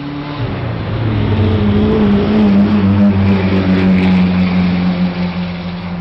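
A car's engine running steadily with rushing road and wind noise. About half a second in the pitch drops slightly and then holds. The sound swells to its loudest about midway and eases off near the end.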